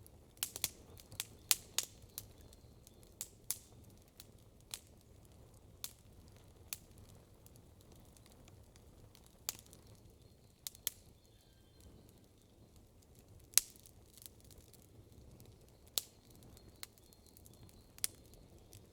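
Wood campfire crackling and popping: sharp irregular snaps, a cluster of them in the first two seconds and then every second or two, over a low steady hiss of burning.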